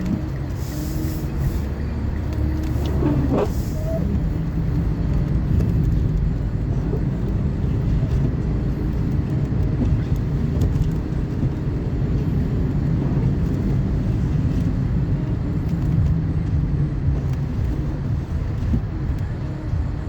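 Car driving: a steady low rumble of engine and tyre noise heard from inside the cabin.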